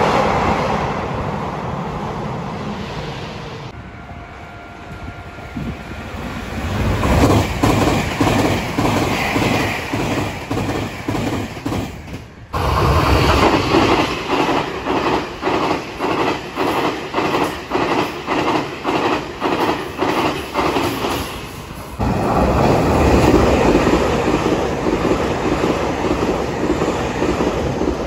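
Passenger trains running past station platforms. First a rushing passing noise that fades, then a train building up as it approaches, then a passing train's wheels clattering over rail joints in a steady rhythm of about two beats a second, and finally another steady rush of a train going by.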